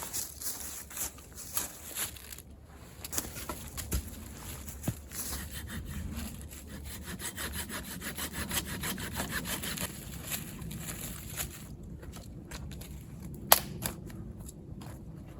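Firewood being cut with a hand saw: rasping back-and-forth strokes, quickest and most even in the middle, with one sharp knock near the end.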